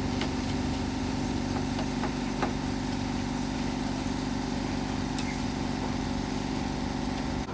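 iRobot Roomba 577 robot vacuum's motors running, a steady hum with several fixed pitches and a few faint ticks.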